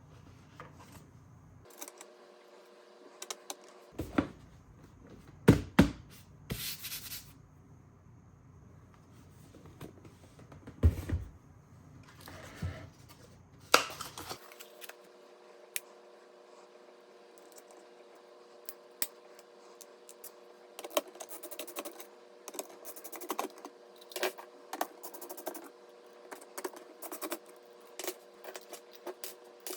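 Hands handling PC parts and their packaging: scattered sharp clicks, taps and scrapes, with a short hissing rustle about seven seconds in and a run of quicker small clicks through the second half.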